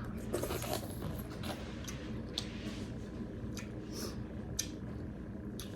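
Eating and serving sounds: scattered short clicks and soft wet sounds of food and dishes being handled, over a low steady hum.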